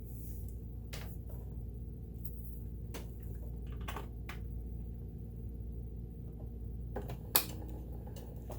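Scattered light clicks and taps from handling a sewing and embroidery machine, over a steady low hum. The sharpest click comes near the end. The clicks come too sparsely to be stitching at speed.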